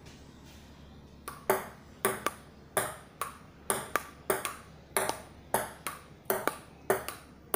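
Table tennis rally on a dining room table: the ball clicks back and forth between the paddles and the tabletop in a steady rhythm of about two to three hits a second, starting a little over a second in.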